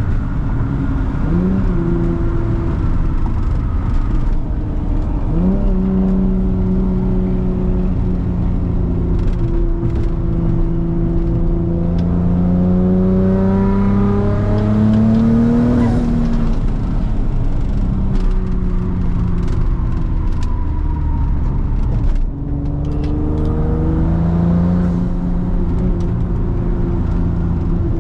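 Twin-turbocharged 2006 Nissan 350Z's 3.5-litre V6 (VQ35DE) running under way at a steady drone. Revs climb from about midway, drop off, then build again after a brief lift near the end.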